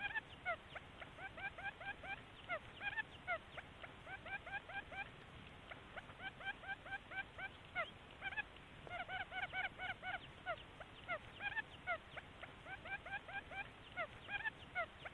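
Quail calling in quick runs of short, bright, hooked chirps, about five or six notes a second, broken by brief pauses, with an occasional longer, louder note. This is a recorded lure call for drawing wild quail in to trap.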